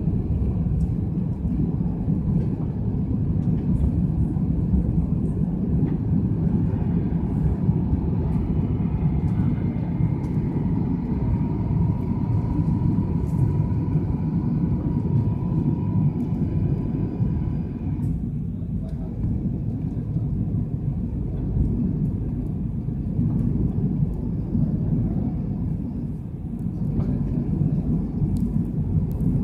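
Airbus A330-200 cabin noise heard from a window seat: a steady low rumble of the Rolls-Royce Trent 772 engines and airflow. A faint steady whine comes in about a quarter of the way through and stops a little past halfway.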